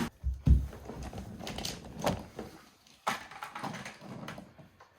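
Handling noise as things are moved about: a heavy low thump about half a second in, then several sharper knocks and some scraping.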